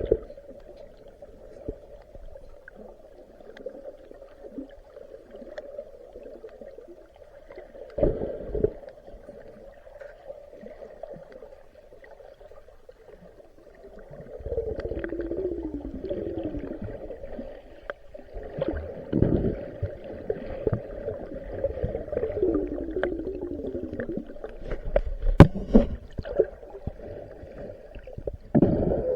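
Muffled underwater sound picked up by a submerged camera: water gurgling and rumbling with a steady low hum, a few sharp knocks, and whistle-like tones that glide downward twice in the second half.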